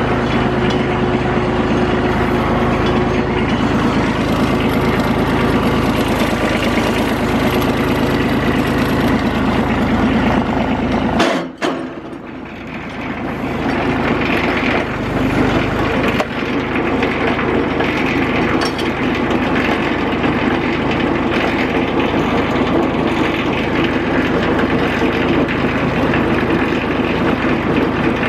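Kubota tractor's diesel engine running steadily. The sound drops away abruptly about eleven seconds in and comes back over the next few seconds.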